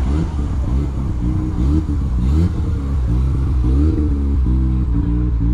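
Rotary-engined car revving: a steady low idle broken by several short blips that rise and fall in pitch.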